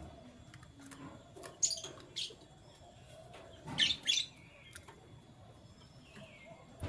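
Canaries giving short, scattered chirps: quick high calls about a second and a half in, two louder ones near the middle, and a short falling call near the end, with faint light knocks between them.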